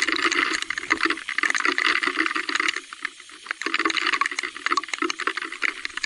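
Rushing, splashing noise of rain and wet riding on a mountain-bike trail, dotted with many small clicks and knocks. It dips for about a second around three seconds in, then comes back.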